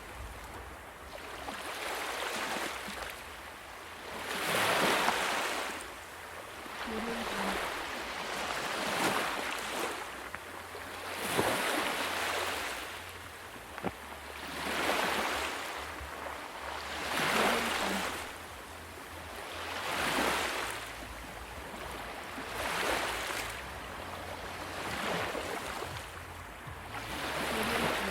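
Ocean waves breaking and washing on a shore, a fresh surge of surf about every two to three seconds, each swelling and fading away.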